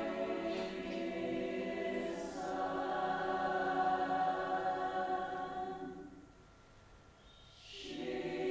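Choir singing sustained chords, changing chord about two seconds in; the voices fade to a brief hush around six seconds in, then enter again near the end.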